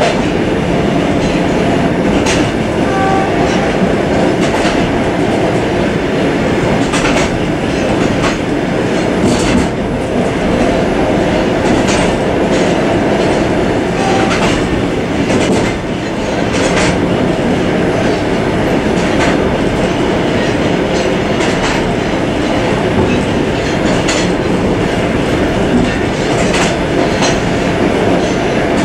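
A suburban passenger train running along the track, heard from inside the car's vestibule. The wheels make a steady rumble, with a click-clack from the rail joints about every two and a half seconds.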